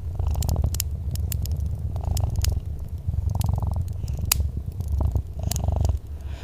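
A domestic cat purring in a steady low rumble that swells and dips with each breath, about every one and a half seconds, with frequent sharp snaps and crackles from a wood fire over it.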